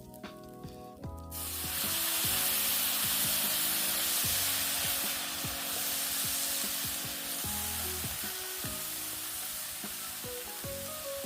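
Food sizzling in a hot pan, starting suddenly about a second and a half in as it goes into the pan, then frying with a steady loud hiss.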